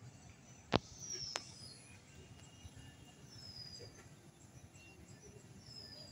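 Bird calls: short, high whistles falling in pitch, repeated every couple of seconds. Two sharp knocks come about a second in.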